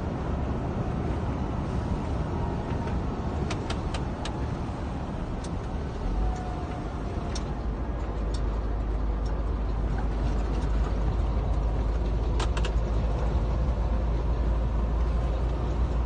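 Scania R410 truck's six-cylinder diesel engine and tyres as it drives on the road: a steady low rumble that gets heavier about six seconds in, with a few short clicks or rattles.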